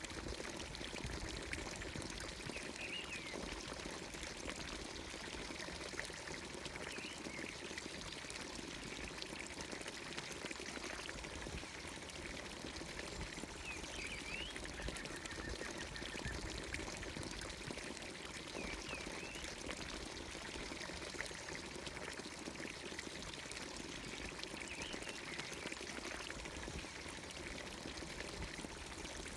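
Water pouring steadily from the spout of a village fountain into its watering trough, with short bird chirps every few seconds.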